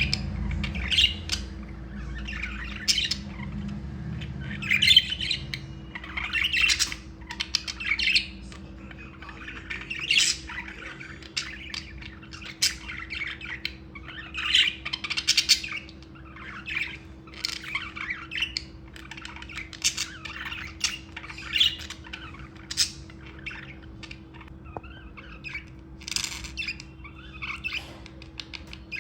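Budgerigars chirping and chattering in quick, irregular runs of short squawky calls, with a faint steady hum underneath.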